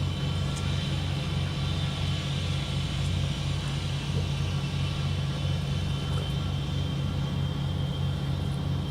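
A steady low engine drone with an unchanging hum.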